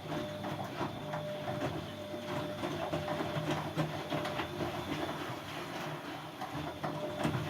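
Siemens Siwamat C10 washing machine running with its drum turning: a steady motor hum with a thin whine that comes and goes, over many small irregular knocks and clatters.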